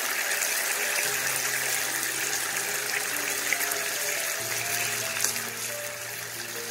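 Chicken satay skewers sizzling in sauce in a non-stick pan, a steady hiss, with soft background music of long held notes.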